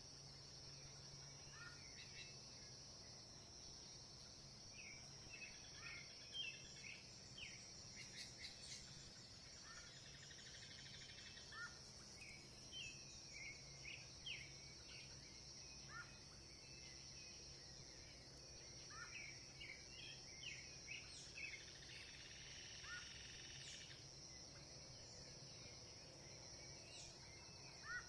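Faint birdsong: short chirps and phrases from birds, scattered throughout, over a steady high-pitched insect drone.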